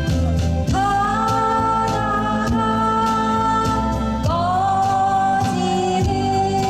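Live busking cover of a Korean folk song: a voice sings two long held notes, the second starting about two-thirds of the way through, over acoustic guitar and backing accompaniment.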